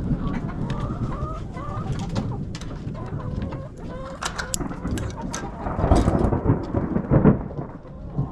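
Flock of chickens clucking and calling in short curved notes over a low rumble that swells twice near the end, with scattered small clicks.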